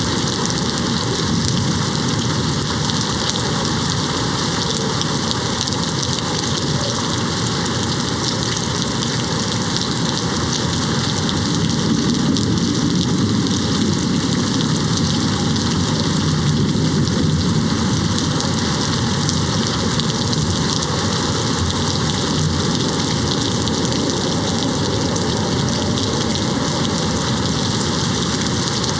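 Steady rain hitting a window pane. About twelve seconds in, a low rumble of distant thunder swells and fades over several seconds.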